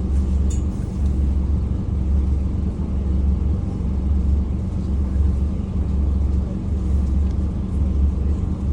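Scania N230UD Omnicity bus's diesel engine running, heard from inside the passenger cabin: a deep drone that swells and fades about once a second over a steady hum of road and engine noise.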